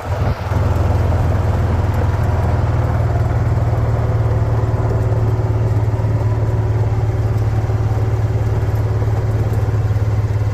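Vehicle engine running at a steady speed while driving, a constant low drone.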